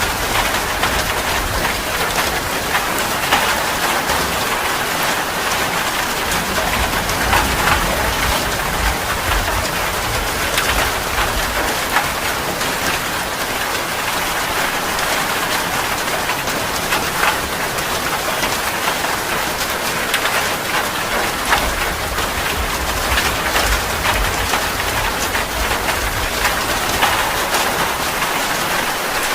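Steady heavy rain falling on a surface, with a constant hiss and many individual drop impacts.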